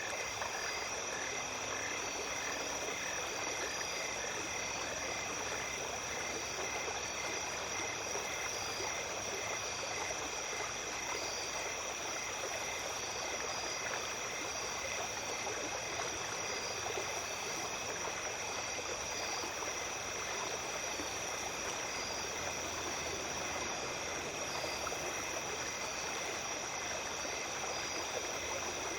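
A small creek flowing with a steady hiss of running water, under a chorus of night insects: several continuous high trills and an evenly pulsed chirping.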